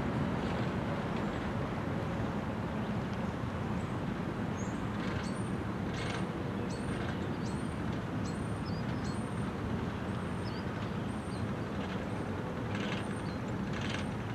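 Freight train of loaded trash cars rolling past at steady speed: a steady rumble of wheels on the rails. Faint high chirps come in from about five seconds in.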